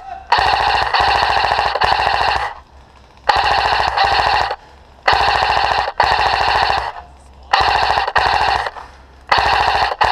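Airsoft rifle firing full-auto in five long bursts of one to two seconds each, with short pauses between, each burst a rapid even rattle of shots over a steady mechanical whine.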